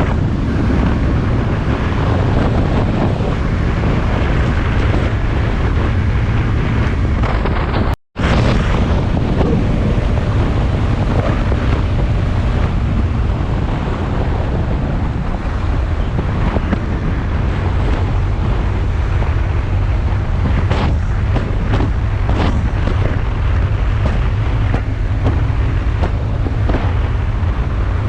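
Wind buffeting the microphone on a moving motorcycle, with road and engine noise under it. It is steady, with a brief cut to silence about eight seconds in.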